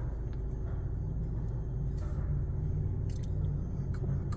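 Steady low rumble heard inside a car's cabin as it sits on a car wash tunnel conveyor, with a few faint ticks.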